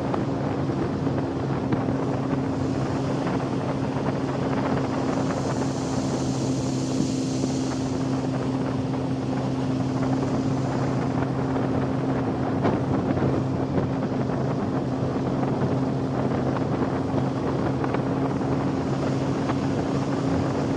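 A boat engine running steadily with an even hum, with wind buffeting the microphone.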